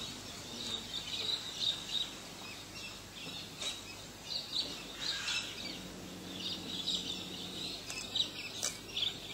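Birds chirping and calling repeatedly in short high notes over outdoor background noise, with a faint low hum for a couple of seconds in the middle.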